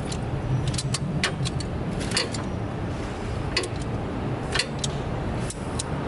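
Irregular sharp metal clinks of hand tools and bolts against the engine and its brackets, a dozen or so at uneven spacing, over a steady low hum.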